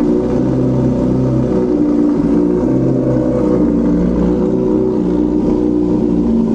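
Honda CBR600RR's inline-four engine through a TOCE aftermarket exhaust, running loud at steady revs with no big rise or fall in pitch.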